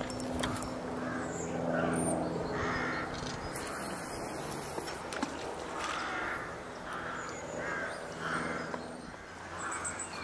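A bird calling over and over, a run of short calls about one every three-quarters of a second in the second half. A low steady hum sounds under it for the first few seconds.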